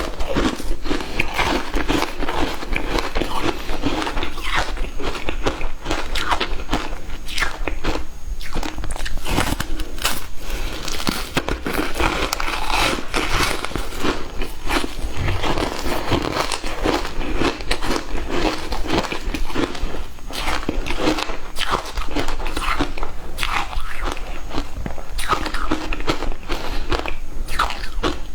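A person biting and chewing frozen matcha ice: a dense, continuous run of crisp crunches and crackles with no pauses.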